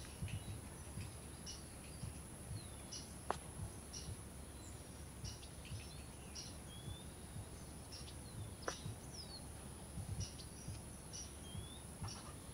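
Faint outdoor ambience of small birds chirping repeatedly, with short high chirps and a few gliding whistles, over a steady very high whine and a low rumble. Two sharp clicks stand out, about five seconds apart.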